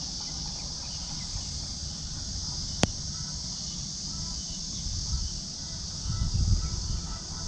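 Summer insect chorus droning steadily in one high-pitched hiss, with a low rumble underneath. One sharp click sounds about three seconds in.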